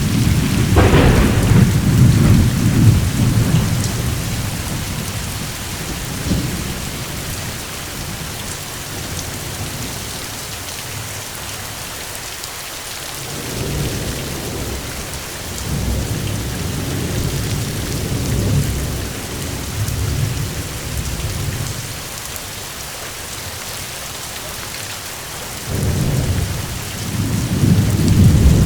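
Steady rain with rolling thunder: a sharper thunderclap about a second in, then low rumbles that swell and fade several times, loudest near the start and again near the end.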